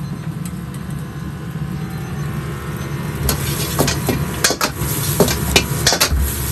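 Metal ladle clanging against a wok in quick, uneven strikes as fried rice is stir-fried, starting about three seconds in, over a steady low roar of the kitchen.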